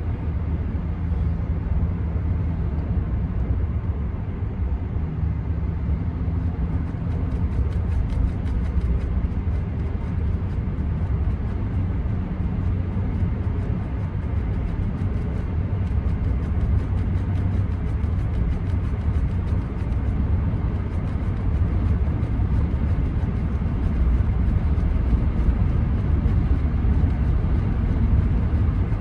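Inside the cab of a 2014 Ram 1500 with the 5.7 Hemi V8 under way: a steady low drone of engine and road noise, growing a little louder near the end.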